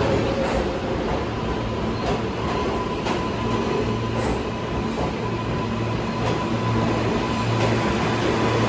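New York City subway train in the station, a steady rumble with a thin steady whine over it and a few faint clicks.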